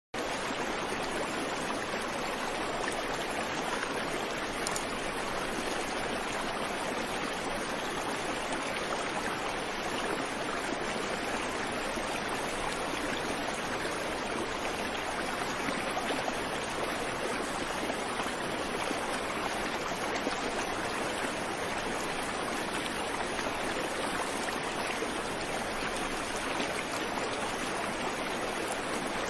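Creek water running over rocks in a steady rush, with no birdsong.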